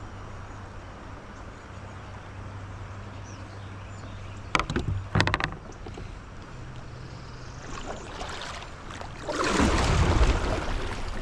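Kayak paddling on a river: two brief rattling knocks about halfway through, then the rush and splash of paddle strokes through the water, loudest near the end.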